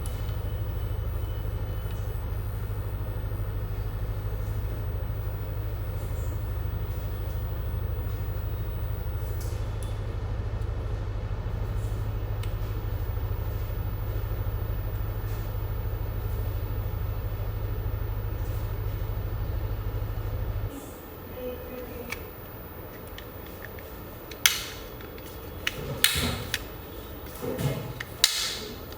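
Small battery-powered trimmer motor running with a steady low hum, showing the repaired trimmer works. It switches off suddenly about two-thirds of the way through, followed by a few sharp plastic clicks and knocks as it is handled.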